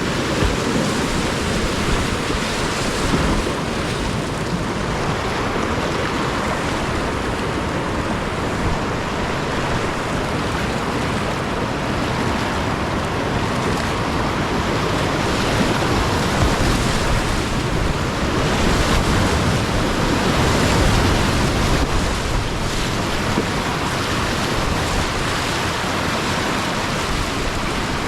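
Whitewater rushing steadily in a steady, even roar, with water and wind hitting the microphone.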